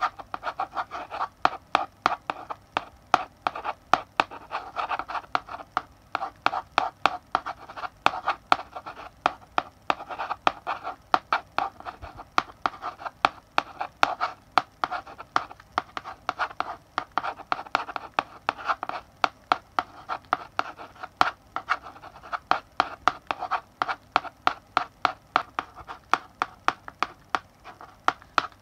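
Chalk writing on a blackboard: a quick run of sharp taps as the chalk strikes the board, with short scratchy strokes between them.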